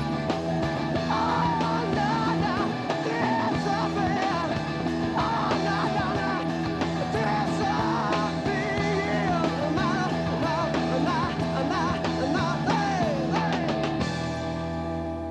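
A rock band playing an instrumental stretch of a song, with a wavering lead line over drums, bass and guitar. About fourteen seconds in, the drums stop and a held chord rings out.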